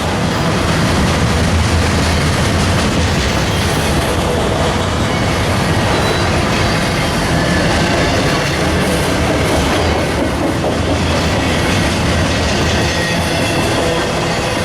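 Train rolling past at close range: a steady loud rumble of wheels on rail with clattering over the rail joints.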